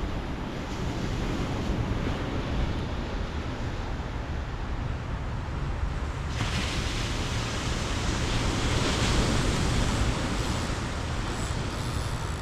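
Ocean surf washing ashore with wind rumbling on the microphone; the hiss of the water grows brighter and louder about halfway through.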